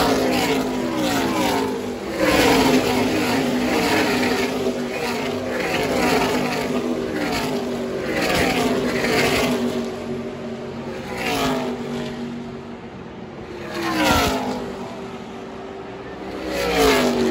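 Race trucks' V8 engines passing one after another at speed, each high engine note dropping in pitch as it goes by. A new pass comes every two to three seconds, with louder ones near the start, about two-thirds through and near the end.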